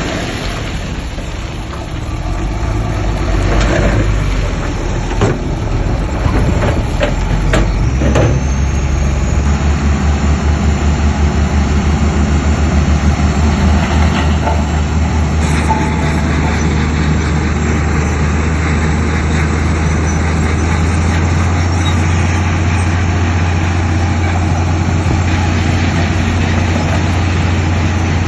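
Heavy diesel earthmoving machinery running, with a few sharp knocks in the first several seconds. After about eight seconds a steady low engine drone settles in.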